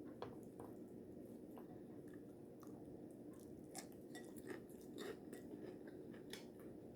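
Faint close-up chewing of taco salad with tortilla chips: a string of small, irregular mouth clicks and crunches over a low room hum.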